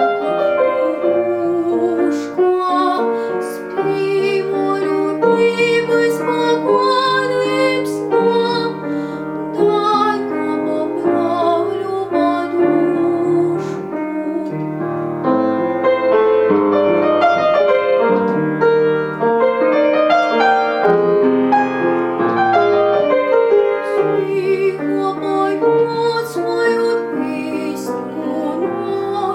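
A young female voice singing a slow Estonian folk lullaby, with piano accompaniment.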